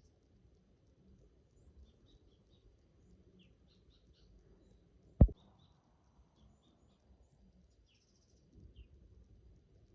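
Faint, scattered short bird chirps over a low background hum, broken by one sharp knock about five seconds in.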